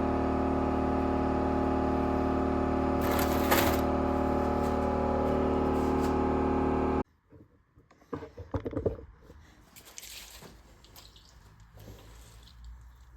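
Air compressor motor running with a steady hum, with a short hiss of compressed air about three and a half seconds in. The hum stops abruptly about seven seconds in, and a few quieter knocks and clatters follow.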